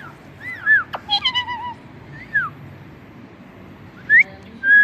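Pet parrot making a string of short meow-like whistled calls, each gliding up and down in pitch, with a sharp click about a second in.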